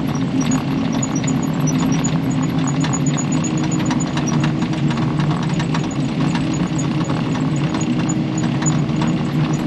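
Kubota KX080 excavator's diesel engine running steadily under working load, with many small clicks and clanks from the machine as it works.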